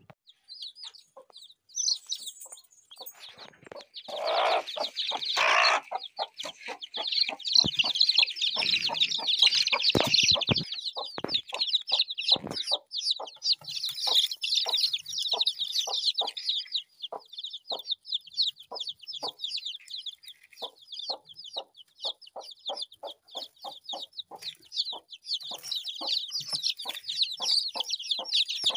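Chickens calling: a steady stream of short, high-pitched calls over many short, repeated lower clucks, with a louder, fuller call about four to six seconds in.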